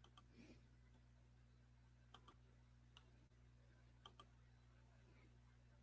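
Near silence: a low steady hum of room tone with about six faint, short clicks scattered irregularly through it.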